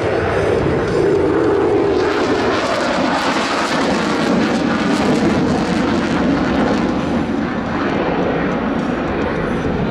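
F-16 fighter jet in flight, its jet engine making a loud, continuous rushing noise that sways slightly in pitch.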